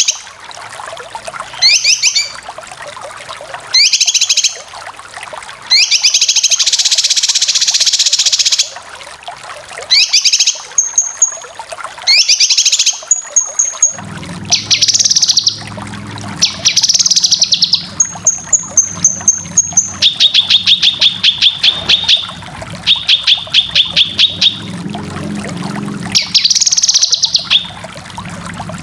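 Cucak kinoy bulbul song in its rapid chattering 'besetan' style: repeated bursts of fast pulsed notes about a second long, with a few short high whistles between them. From about the middle a steady low hum runs underneath.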